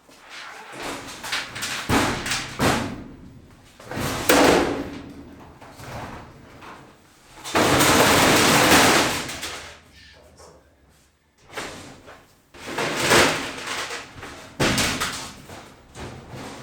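A storage cabinet being moved and set in place: a string of thumps and knocks, and about eight seconds in a loud grinding noise lasting about a second and a half, which the owner puts down to the damaged floorboards under it.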